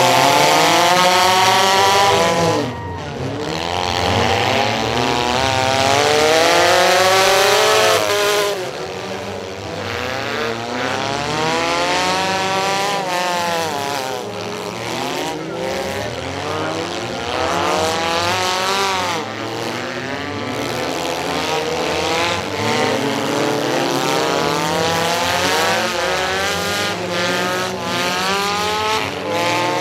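Several demolition derby cars' engines revving hard as they race off at the start of a heat, their pitches repeatedly rising and falling as they accelerate and back off. Loudest over the first several seconds.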